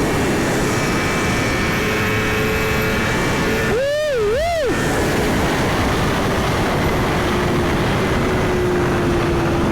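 Wind rush on the microphone over a Suzuki GSX-R1000's inline-four engine cruising at highway speed, its steady note slowly dropping in pitch. A brief voice sound, two rising-and-falling notes, about four seconds in.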